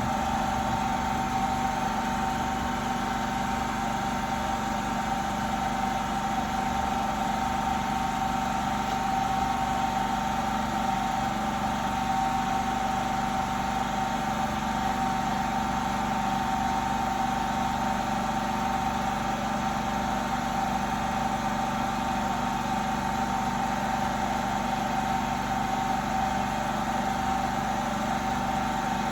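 A steady machine hum with one strong, unchanging tone that does not vary in level.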